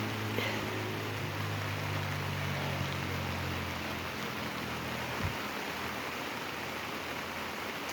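Heavy rain falling on an awning, a steady hiss. A low hum underneath stops with a short knock about five seconds in.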